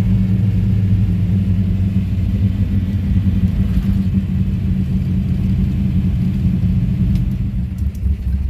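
1955 Chevrolet sedan delivery's newly installed engine running steadily under way, a low drone.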